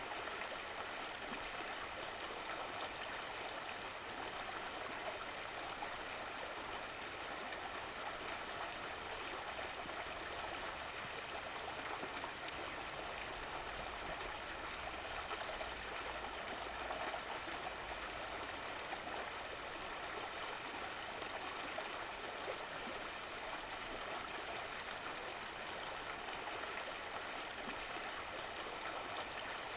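Running water of a stream, a steady, unbroken rush and trickle.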